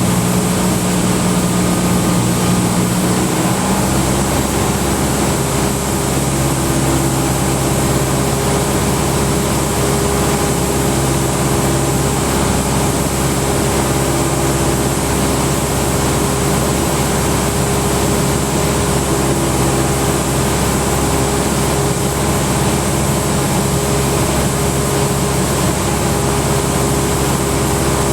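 Cessna 172 Skyhawk's engine and propeller droning steadily, heard inside the cabin. About three and a half seconds in the note drops to a lower steady pitch as the engine is throttled back on the downwind leg.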